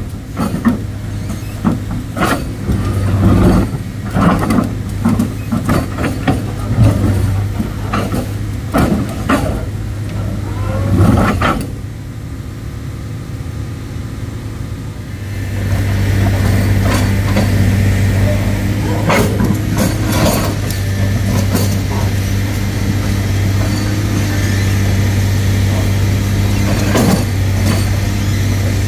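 Heavy diesel engine running at a steady pitch, with repeated sharp knocks and clanks during the first ten seconds or so. The engine grows louder about fifteen seconds in and keeps running steadily.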